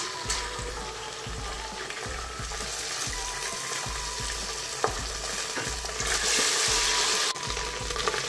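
Ginger-garlic paste sizzling in hot oil with fried onions in an aluminium pressure cooker. It is stirred with a wooden spatula near the end, and there is one sharp tap a little before that. The sizzle grows louder about six seconds in.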